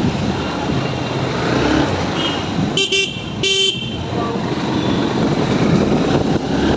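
Two short vehicle horn toots in quick succession about three seconds in, the second slightly longer, over steady road, engine and wind noise of a motorbike ride in traffic.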